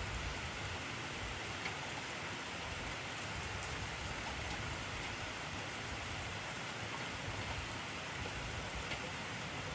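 Intense rainfall with an even, steady hiss and a few faint drop ticks.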